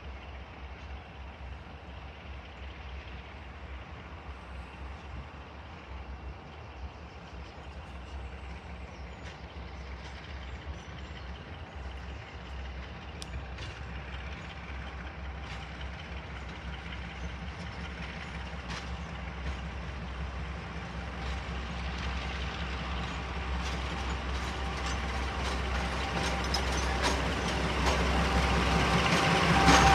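Heritage diesel locomotive's engine, a steady low hum that grows steadily louder throughout, with a few faint clicks in the second half.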